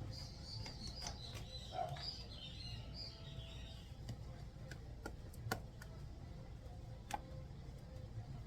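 Small birds chirping for the first few seconds, with a few sharp clicks later, over a steady low hum.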